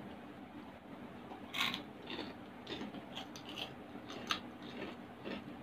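Close-miked chewing of food, with a scatter of crisp clicks and crunches; the loudest come about a second and a half in and again past four seconds.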